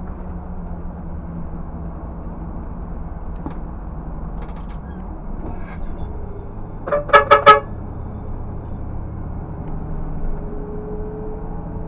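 Scania 360 truck engine running steadily, with a quick burst of four short horn toots about seven seconds in.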